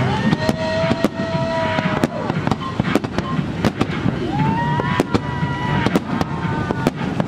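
Fireworks going off in quick, irregular bangs and crackles. Twice a long pitched tone rises and then holds for a second or two over them.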